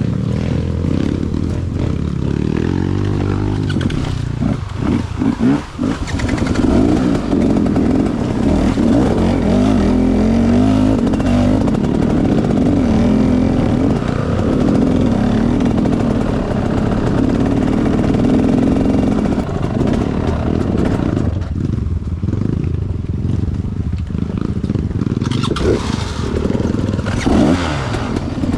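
Enduro dirt bike engine running under changing throttle, its pitch rising and falling as it revs and eases off.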